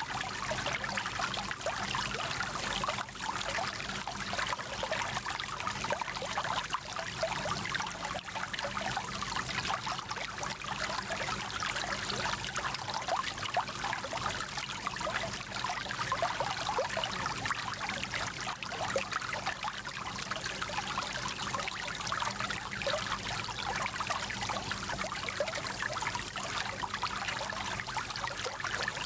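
Small mountain stream babbling and splashing over stones, a steady rush of running water with fine bright gurgles.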